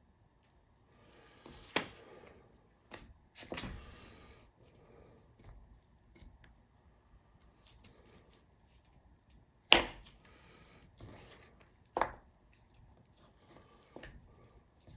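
Knife and hands working a raw chicken thigh on a cutting board, trimming and pulling off fat: soft scraping and handling between a few sharp knocks of the knife on the board, the loudest about ten seconds in.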